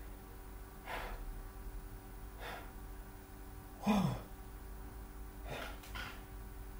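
A man breathing out in a few noisy sighs of exasperation. The loudest, about four seconds in, is a voiced sigh that falls in pitch.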